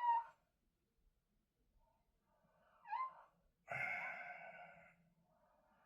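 A cat meowing: a short call that rises and falls about three seconds in, then a longer, steadier call about a second later.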